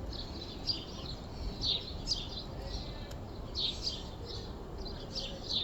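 Small birds chirping over and over, short high falling chirps, over a faint outdoor background hum.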